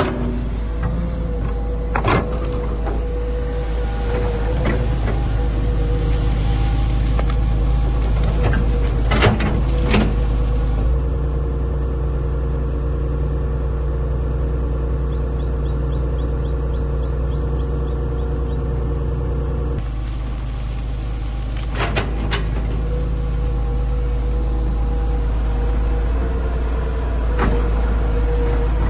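Excavator engine running steadily, its note shifting about eleven seconds in and back near twenty seconds, with a few sharp knocks along the way.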